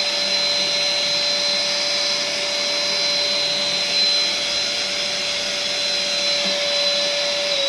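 Ribimex Cenetop 1200 W electric ash vacuum running with a steady high whine and rushing air, its exhaust blowing very hard. Near the end the motor is switched off and its pitch falls as it winds down.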